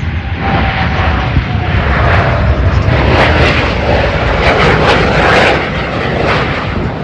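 Blue Angels F/A-18 Super Hornet jets flying past, loud. The noise builds to a peak with a rough crackle about three to five seconds in, under a faint whine that slowly falls in pitch, then eases.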